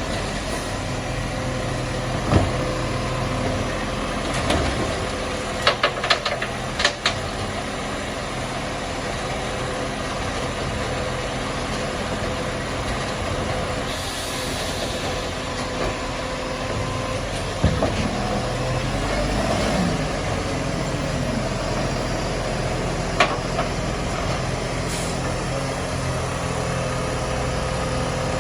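Garbage truck engine running steadily, with a constant whine held throughout and several sharp knocks and clatters, a cluster of them about six seconds in.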